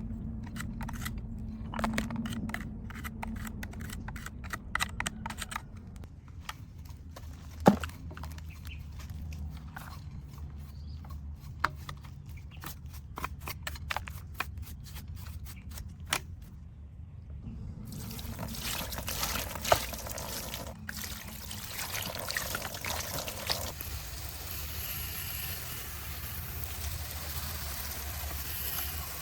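Water pouring and trickling over a miniature model car being washed, with many small clicks and taps in the first half and a steadier hiss of water in the second half.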